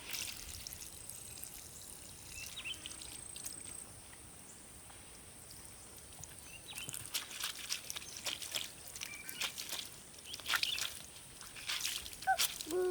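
Clothes being washed by hand in water: scattered splashing, pouring and dripping, busier in the second half. Short bird or duck calls come in near the end.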